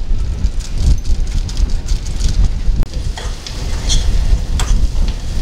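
Onions and spices frying in a steel pan on a portable butane camping stove, sizzling while a metal spoon stirs and scrapes against the pan with scattered clinks. A strong, uneven low rumble runs underneath.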